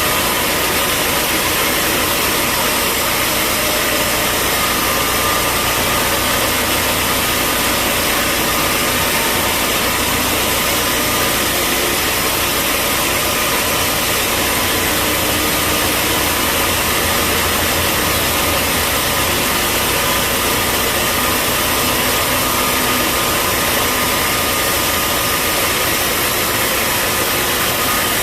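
Sawmill bandsaw machinery running steadily: a loud, even mechanical noise with a few faint steady tones.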